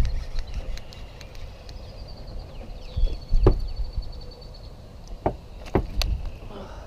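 Low wind rumble on the microphone aboard a small fishing boat, broken by a few sharp knocks, with a faint high trill in the first half.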